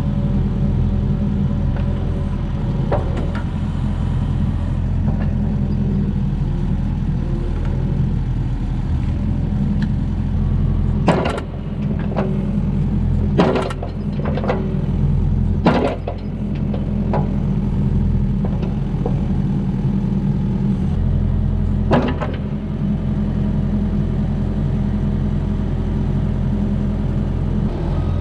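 Mini excavator's diesel engine running steadily, with a cluster of sharp knocks about eleven to sixteen seconds in and another around twenty-two seconds.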